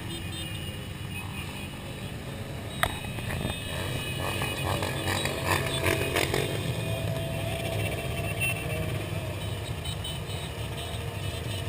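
Motorcycle engines running steadily, with a single sharp click about three seconds in.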